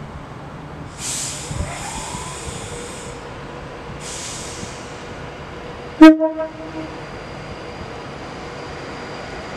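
Class 390 Pendolino electric train pulling away: two bursts of air hiss, then a rising electric whine that settles to a steady tone as it gets moving. About six seconds in comes a short, very loud train horn blast.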